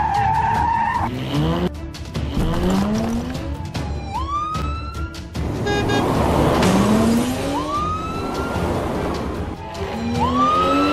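Dubbed sports-car sound effects: a short, wavering tire squeal, then an engine revving up about four times, each rev climbing in pitch. Background music plays underneath.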